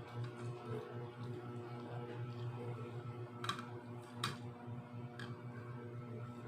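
Eating noises at a meal: three sharp clicks or smacks of chewing and handling food, about halfway through, over a steady low hum.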